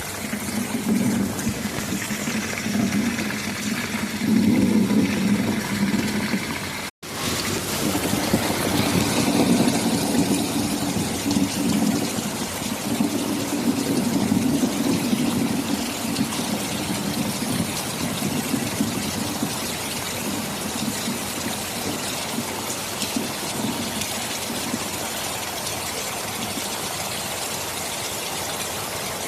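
Heavy rain falling steadily, with low rolling thunder swelling and fading beneath it. The sound cuts out for an instant about seven seconds in.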